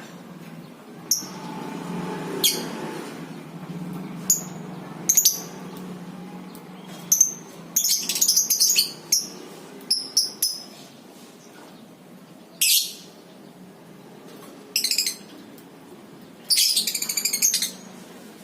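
Lovebirds giving shrill, sharp calls, about a dozen spread out, with two short runs of rapid chattering about eight seconds in and near the end. This is the chatter that lovebird keepers call 'ngekek'.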